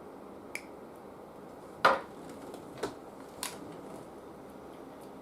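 Four light clicks and knocks of small tools and parts being handled on a workbench, the loudest about two seconds in, over a steady low hiss.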